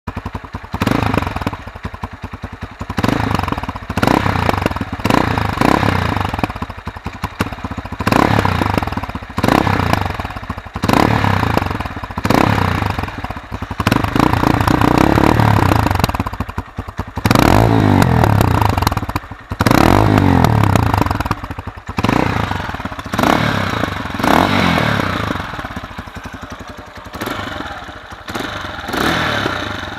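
ZR 200's engine and exhaust blipped again and again: a surge in revs about every one to two seconds, each falling back toward idle before the next.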